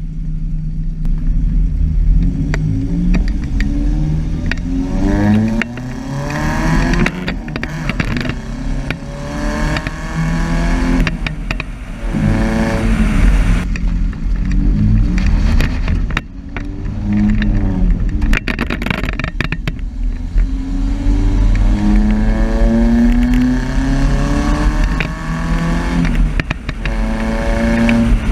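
A 1998 GMC Sonoma's 2.2-litre four-cylinder, fitted with headers, a gutted catalytic converter and a MagnaFlow muffler, accelerating hard. Its exhaust note rises in pitch, drops, and rises again several times, as through gear changes, with one long climb near the end.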